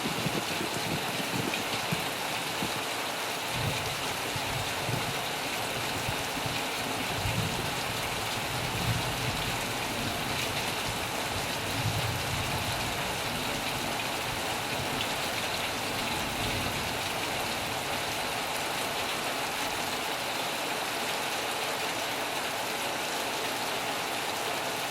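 Steady heavy rain, with irregular low rumbles of thunder through the first two-thirds.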